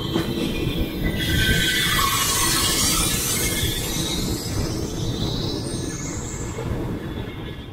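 Long-distance passenger train coaches rolling along the rails: a steady low rumble of steel wheels, with hissing and wheel squeal rising from about a second in and a higher squeal near the end.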